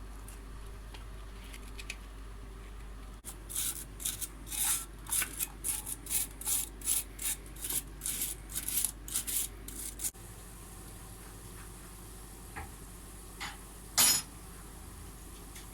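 A brush scrubbing a rusty brake caliper, about three short strokes a second for several seconds, then one louder single stroke near the end.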